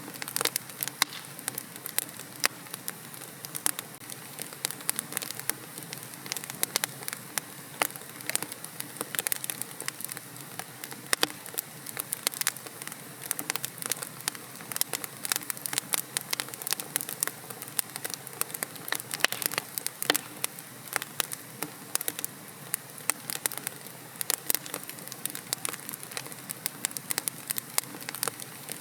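Wood logs burning in a fireplace, crackling steadily with many sharp irregular pops and snaps over a soft hiss of flame.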